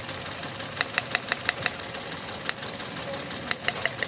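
Suzuki Cultus engine idling unevenly with irregular sharp ticks, misfiring because one cylinder is not firing.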